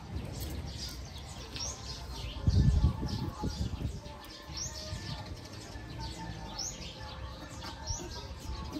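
Small birds chirping over and over, short high calls that sweep upward, with a brief low rumble about two and a half seconds in that is the loudest thing heard.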